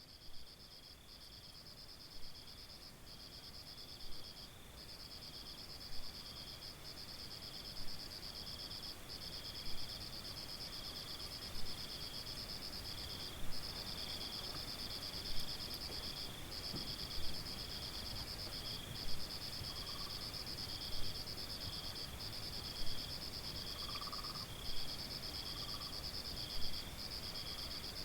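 Crickets or similar insects trilling in a steady high-pitched chorus, with a louder pulse about every two seconds. The chorus swells in over the first ten seconds or so, and a few faint lower calls come in during the second half.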